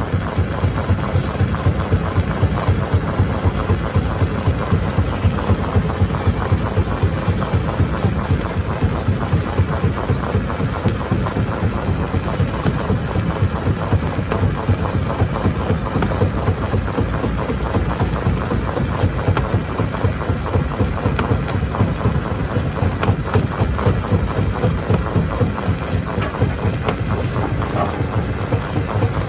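Stone crusher machine running continuously, a dense mechanical din that pulses rapidly and evenly throughout.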